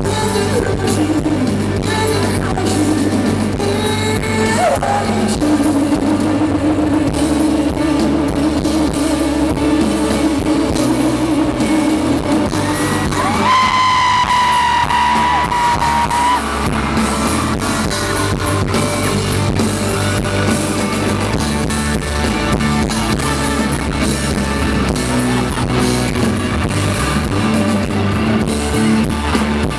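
Live pop-rock band playing a song, with singing and electric guitar over bass and drums. Long held notes stand out, one lower from about five seconds in and a higher one at about the middle.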